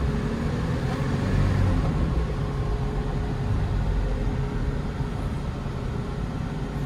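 Inside the cab of a 2018 Hyundai Porter II truck driving in top gear: steady low engine drone and road rumble, with a faint steady hum over it.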